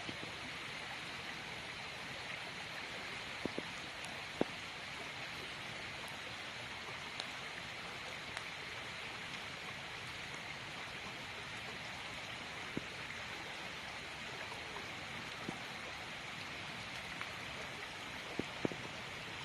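Campfire burning: scattered sharp crackles and pops, a few seconds apart, over a steady hiss.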